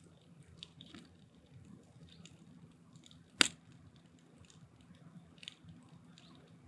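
Firewood burning in a steel drum, crackling with small scattered pops and one loud, sharp pop about three and a half seconds in.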